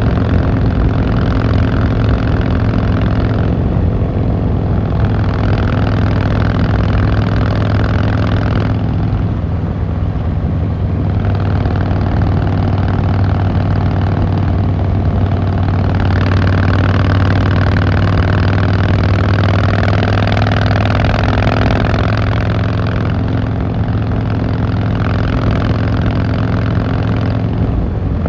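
Harley-Davidson Fat Boy Lo's V-twin engine and exhaust running steadily while riding, with a low, even engine note throughout. A higher rushing noise comes and goes every few seconds.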